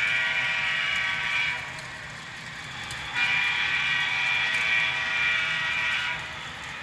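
DCC sound decoder in an HO scale FP9 model locomotive sounding its diesel air horn through its small onboard speaker: a long blast that ends about a second and a half in, then a second long blast of about three seconds. A steady low prime-mover rumble runs underneath.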